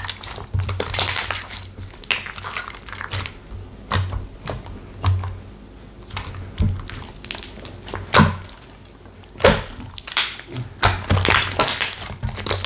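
Slime being pressed and squeezed by hand, making irregular sharp clicking and crackling pops, with two louder pops in the second half.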